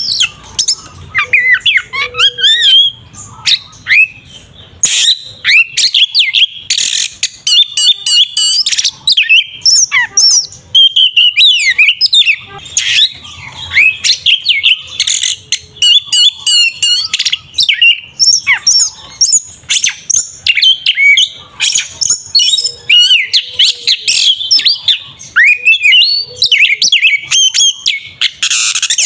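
Oriental magpie-robin singing loudly and without pause: a fast run of whistles, slurred notes and harsh chirps in short phrases with brief breaks. This is its aggressive, fighting full song, used to stir other magpie-robins to sing.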